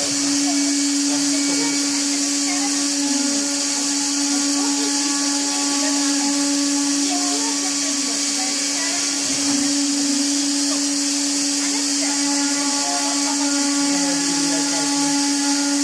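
A woodworking machine running steadily: a constant motor hum with a loud hiss over it, unchanging throughout, with faint voices underneath.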